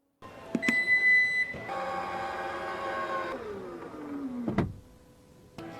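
A short high beep, then a small electric motor whirring steadily, winding down in pitch and stopping with a click.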